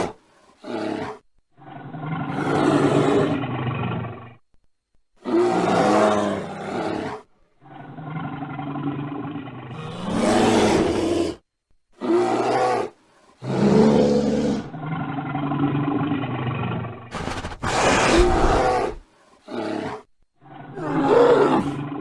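A string of bear roars and growls, about ten separate calls of one to two seconds each, spliced together with abrupt starts and stops and short silent gaps between them.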